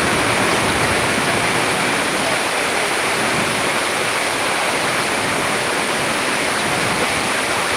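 Heavy thunderstorm rain falling, a steady even hiss.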